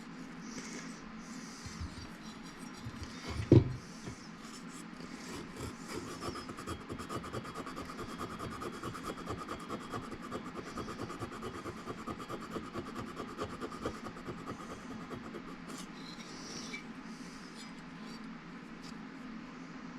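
Quick, even rubbing strokes against metal, from an attempt to rub scoring out of a Husqvarna 353 chainsaw's cylinder bore. A single sharp knock comes about three and a half seconds in.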